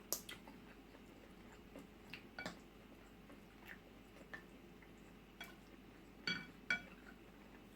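A spoon clinking against a bowl a few times during eating, with two louder, ringing clinks near the end.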